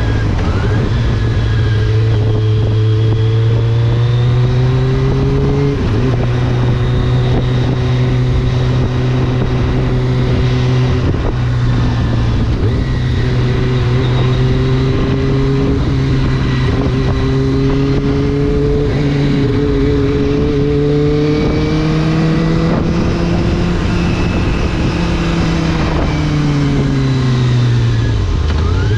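Kawasaki ZX-25R 250 cc inline-four motorcycle engine with an Akrapovič racing exhaust, heard while riding at moderate revs. The pitch slowly rises and sags, drops sharply about six seconds in as a gear changes, and falls away near the end as the bike slows.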